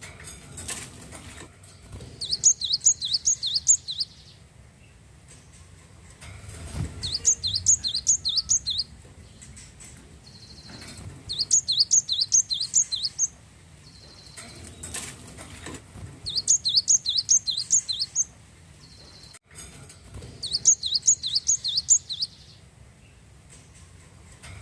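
Glatik wingko (cinereous tit) singing: five phrases of rapid, high chirping notes, each about two seconds long, repeated every four to five seconds.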